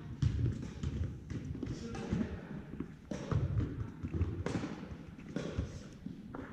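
Volleyball thuds as the ball is hit and bounces on a hard court floor: a string of separate impacts, the two loudest about three and four and a half seconds in.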